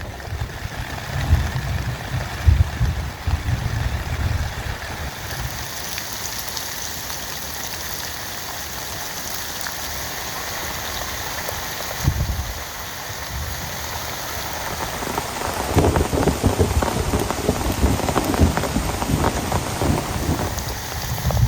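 Heavy rain falling steadily. There are low rumbles in the first few seconds and again about halfway through, and the drops turn denser and crackling for the last quarter.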